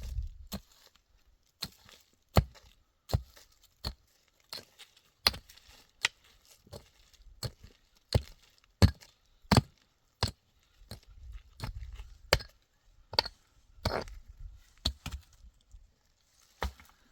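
Repeated sharp chopping strikes at an irregular pace of about one or two a second, some louder than others.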